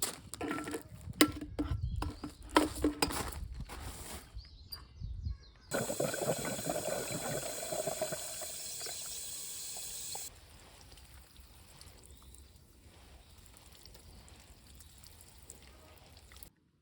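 A few clicks and knocks of things being handled, then liquid pouring steadily for about four seconds, stopping suddenly and leaving a faint steady hiss.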